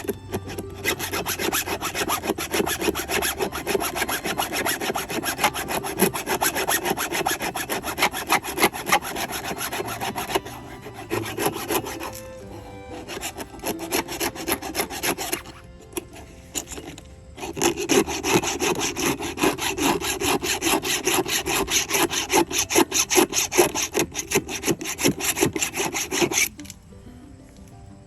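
A hand file stroking across the cutters of a Craftsman 20-inch chainsaw chain to sharpen it, in long runs of quick, rapid filing strokes. It pauses twice in the middle and stops near the end.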